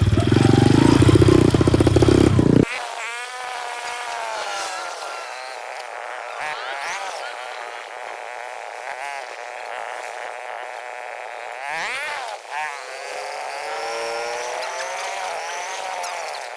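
Minibike's small engine running loud and low for the first couple of seconds, then cut off abruptly. It is followed by a thinner, quieter engine sound whose pitch rises and falls as it revs.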